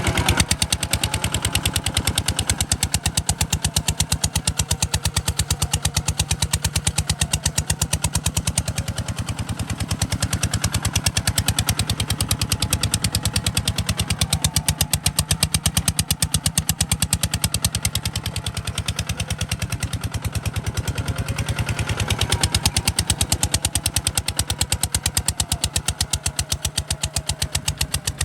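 Kubota RT140 DI single-cylinder diesel engine running steadily, with an even, rapid chugging beat.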